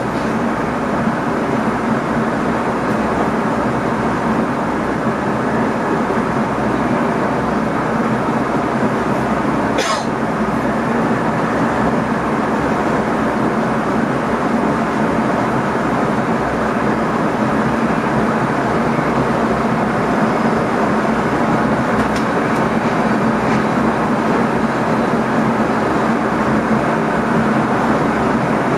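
Steady running noise inside the driver's cab of an NS ICM electric multiple unit travelling along the track, with a constant low hum. There is one sharp click about ten seconds in.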